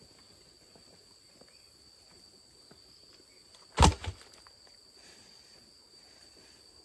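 A sharp knock about four seconds in, followed at once by a smaller one, over a steady high-pitched insect drone.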